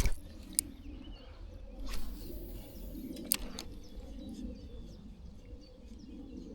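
Quiet riverside ambience: faint bird chirps over a low steady background noise, with a short rustle about two seconds in and a couple of small clicks.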